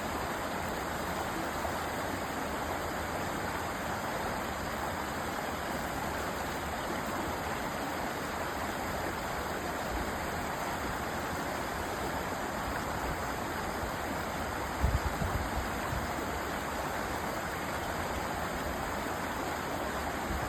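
Mountain valley stream rushing steadily over rocks. A few brief low thumps come about fifteen seconds in.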